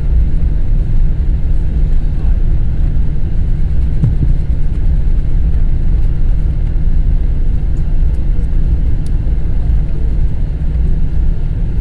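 Steady low rumble inside the cabin of a Boeing 777-200ER as it taxis: the jet engines running at taxi power together with the airframe's rumble.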